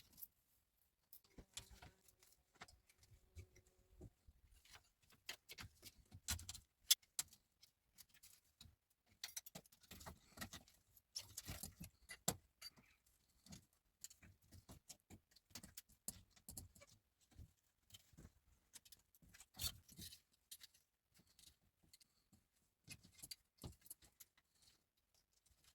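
Quiet, scattered small clicks, taps and light rattles, as of objects being handled, irregular and without any steady background.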